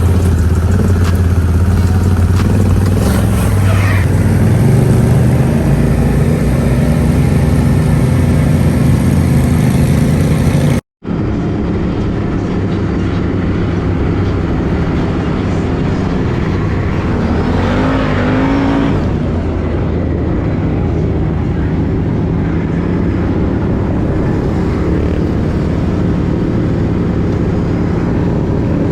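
Off-road vehicle engine running loud and steady, cut off briefly about eleven seconds in, then picking up again with a rev a little past the middle.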